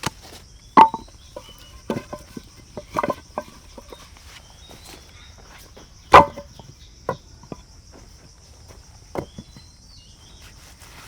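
Irregular knocks and thuds of wood being worked, spaced a second or more apart, the loudest about six seconds in, over a steady high insect drone with a few short bird chirps.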